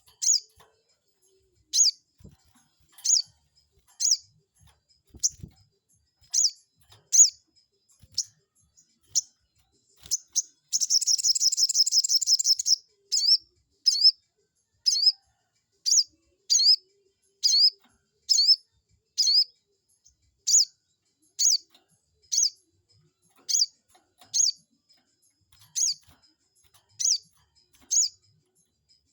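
Sogon bird calling: sharp high chirps repeated about once a second, broken about 11 s in by a rapid trill of about two seconds. The calls serve as a lure to provoke a rival sogon into answering.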